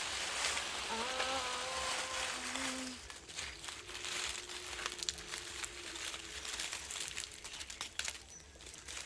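Performers' voices: a breathy hissing sound with a few steady held sung notes over the first three seconds, then a faint held note under scattered crackling and rustling clicks.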